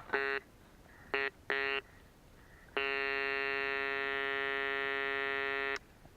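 Metal detector giving a buzzy, low-pitched target tone as the coil sweeps over a buried object: three short beeps, then one steady tone held for about three seconds. It is signalling a metal target in the ground.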